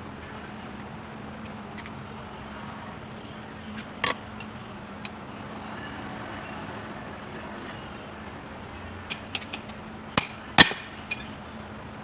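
Sharp metallic clinks and knocks of tools and small metal parts being handled during work on a diesel injection pump: a single knock about four seconds in, then a quick cluster of clinks near the end, over a steady low hum.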